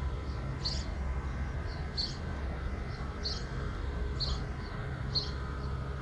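A songbird repeating short, high chirps about once a second, over a steady low rumble.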